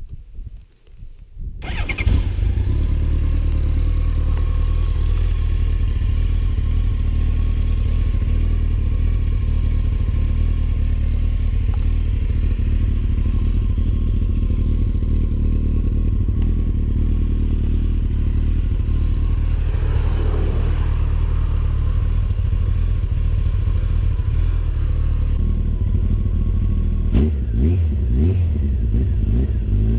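Honda CBR1100XX Super Blackbird's inline-four engine, fitted with a new aftermarket exhaust, catching about two seconds in and idling steadily, with a few short blips of the throttle near the end.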